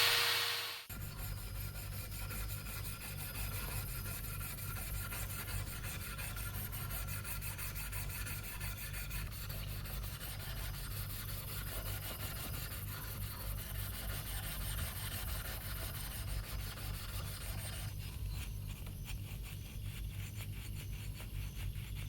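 A power tool stops about a second in, then steady hand rubbing and scraping strokes of abrasive work on the knife.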